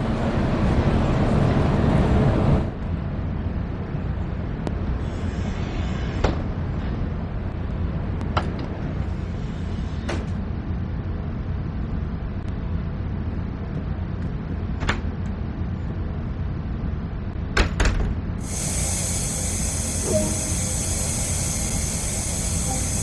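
Train running: a steady low rumble, louder for the first couple of seconds, with a few sharp clicks now and then. A steady high hiss comes in suddenly about three-quarters of the way through.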